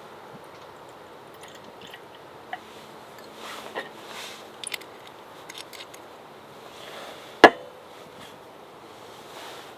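Quiet handling sounds over a steady low hiss: a few light clicks and scrapes, then one sharp knock about seven and a half seconds in that rings briefly, like a hard object set down.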